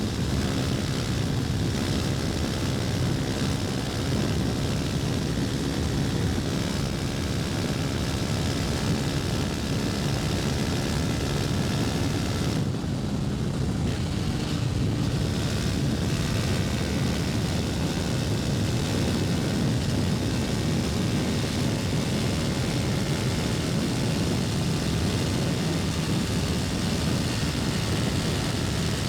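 KTM Duke 250's single-cylinder four-stroke engine running steadily on the move, with a broad rushing noise over it and a brief dip in the higher sound about halfway through.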